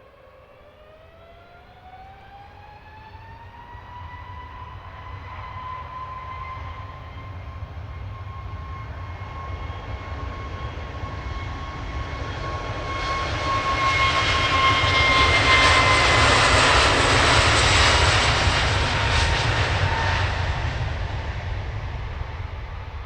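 Jet airliner taking off: the engines wind up with a rising whine over the first few seconds, then a steady whine and deep roar grow louder to a peak about three quarters of the way through. The pitch drops slightly as it passes, and the sound begins to fade near the end.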